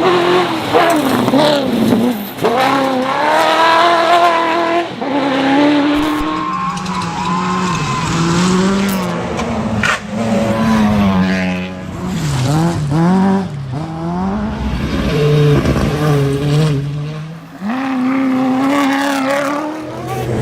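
Rally car engines revving hard and running through gear changes, the pitch climbing and dropping again and again, with a couple of sharp cracks.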